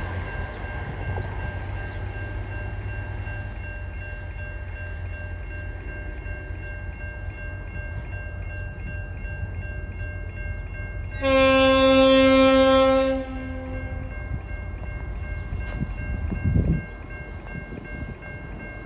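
TasRail diesel locomotive DQ 2009 running with a steady low engine rumble and faint high steady whines, sounding its horn in one blast of about two seconds just past the middle.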